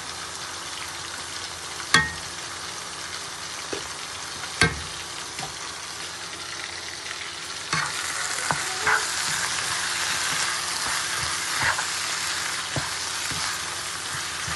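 Ground spice masala sizzling in hot oil in a pan while it is stirred, being fried down (koshano). Two sharp knocks come about two and four and a half seconds in, and the sizzle grows louder near the eight-second mark.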